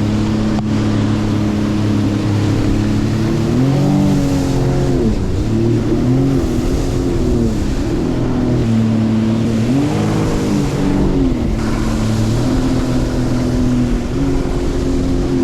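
Watercraft engine running under way, its pitch rising and falling several times as the throttle is eased on and off.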